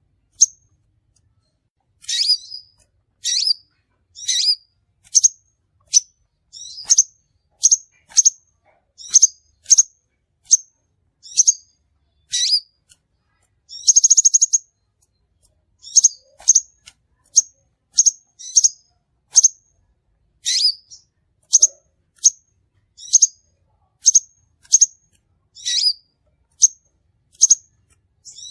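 Crimson sunbird (sepah raja) calling: a steady series of short, sharp, high-pitched chirps, about one a second, with one longer buzzy trill about halfway through.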